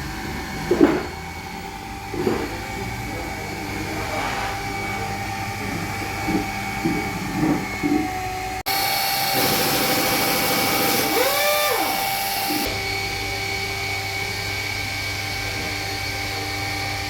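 Electric machine polisher running with a steady whine, with a few short voice-like sounds over it. The sound changes abruptly about halfway through to a brighter, hissier run, where one pitch sweeps up and back down about two-thirds of the way in.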